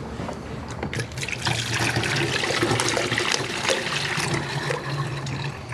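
Coolant being poured into an engine's coolant reservoir: a steady trickling pour that builds about a second in.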